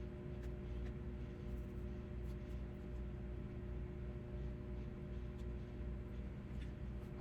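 Steady low electrical hum of a running household appliance, with a few faint ticks.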